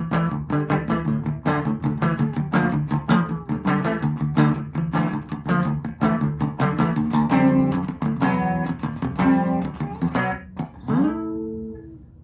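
Donner DMT-100 electric guitar being played, a quick run of picked notes and chords. About eleven seconds in, a note glides up in pitch and is left ringing as it fades.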